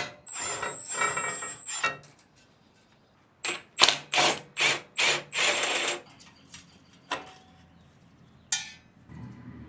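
Ratchet wrench working engine bolts loose: a stretch of ratcheting near the start, then about six quick strokes in a row in the middle, and a single sharp click near the end.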